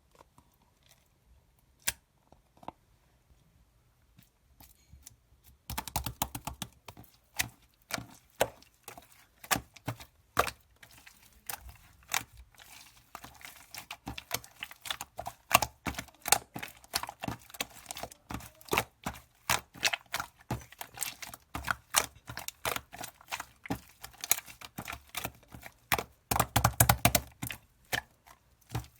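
Slime being squeezed and pressed by hand, making sticky clicks and pops. A few scattered clicks at first, then quick, irregular clicking from about six seconds in, thickest near the end.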